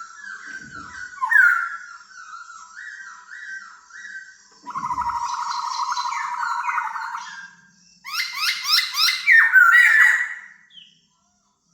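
Laughingthrush singing: a string of sliding whistled phrases, then a buzzy churring passage in the middle, then a loud burst of rapid repeated notes near the end before it stops.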